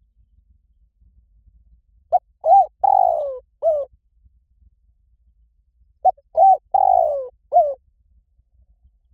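Spotted dove cooing: two identical phrases about four seconds apart. Each phrase is a short note, a rising-and-falling coo, a longer falling coo and a short closing note.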